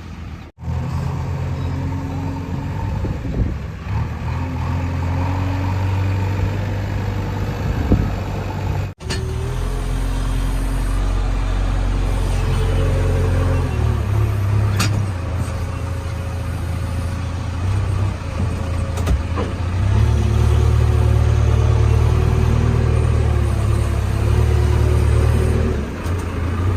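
Diesel engine of a JCB 3DX backhoe loader running under working load, its pitch and loudness rising and falling as the hydraulics are worked, with a louder, harder-working stretch about 20 seconds in.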